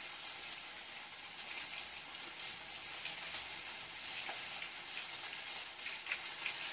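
Flour-dredged anchovies frying in hot sunflower oil in a frying pan: a steady crackling sizzle.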